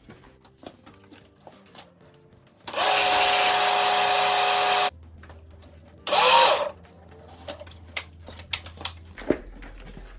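Small electric water blaster (pressure washer) running: a loud spray hiss with a steady motor whine for about two seconds that cuts off sharply, then a shorter burst about six seconds in.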